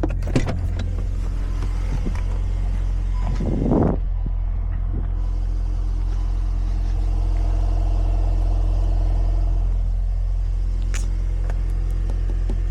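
Volkswagen Golf R Mk8.5's turbocharged 2.0-litre four-cylinder running at low revs through an Akrapovič exhaust, heard close at the tailpipe: a steady low engine note with a brief burst of noise about four seconds in.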